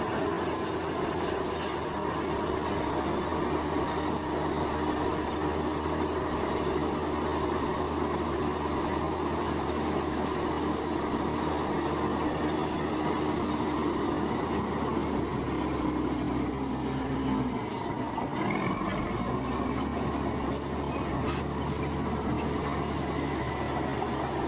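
Bulldozer at work: a steady heavy diesel engine drone with high intermittent metallic squeaking over it; the engine note dips and changes about eighteen seconds in.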